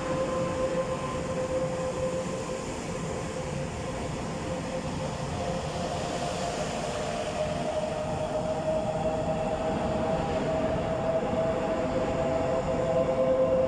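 Taiwan Railways EMU500 electric multiple unit pulling away, its wheels rumbling under a steady electric whine. About five seconds in, extra whining tones join and creep slightly upward in pitch as the train gathers speed, and the sound slowly grows louder.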